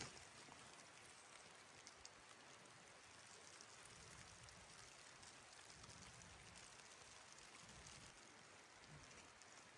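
Near silence: a faint, even hiss with a few faint scattered ticks.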